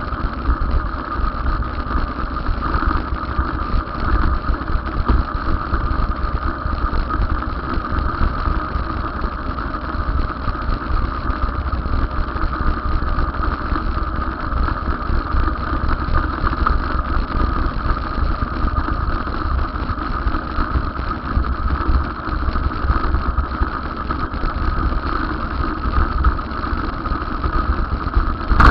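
Steady, continuous vehicle running noise with a low rumble, unchanging throughout.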